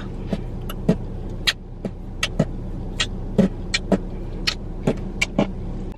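Steady low rumble of a car cabin while driving, with a dozen or so irregular sharp clicks over it.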